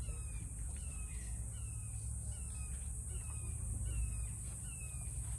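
A bird calling over and over in a steady series of short downslurred notes, about two a second, over a steady low rumble and a high steady hiss.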